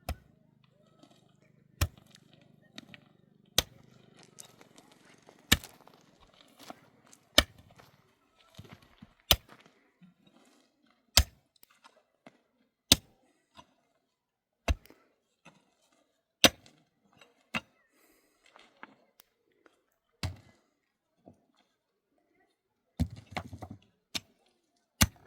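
Sharp single knocks, one about every two seconds, with a short cluster of knocks near the end.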